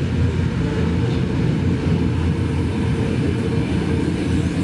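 Flåm Railway train running along the track: a steady low rumble.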